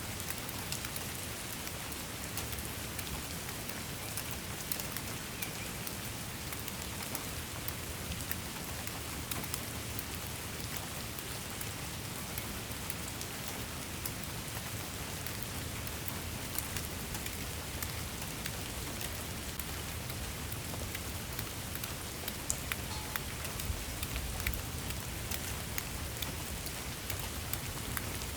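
Steady rainfall, an even hiss with many individual drops ticking sharply on a surface.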